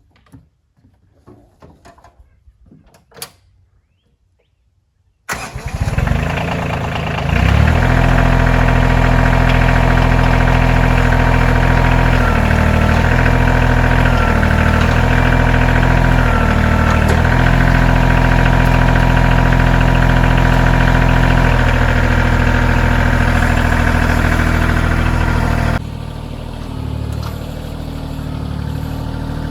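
KIOTI CK2620 compact tractor's three-cylinder diesel engine cranking to life about five seconds in, then running steadily. Its note dips briefly several times as the loader's hydraulics for the new grapple are worked, and the engine gets quieter near the end.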